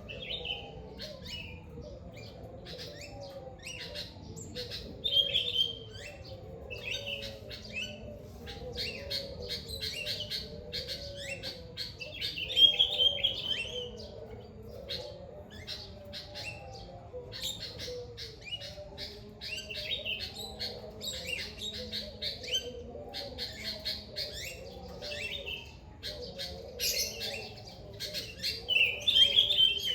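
Many birds chirping and calling at once in a dense chorus, with louder bursts of song about five seconds in, around the middle, and near the end. A lower, wavering layer of calls runs underneath.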